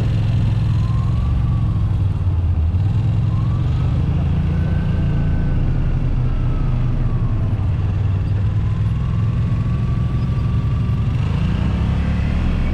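Side-by-side UTV engine running steadily under way on a trail, with a faint higher whine that rises and falls now and then.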